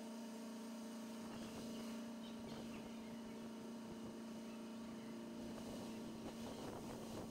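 Faint steady hum on one low tone, with scattered light ticks and rustles that grow a little busier near the end.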